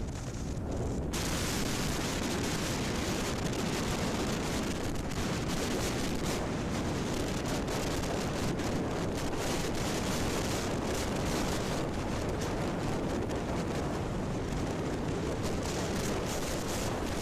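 Heavy wind rush and rumble on the microphone of a Yamaha RX 135 motorcycle ridden at full throttle, its two-stroke single-cylinder engine running underneath. It jumps louder about a second in and then holds steady.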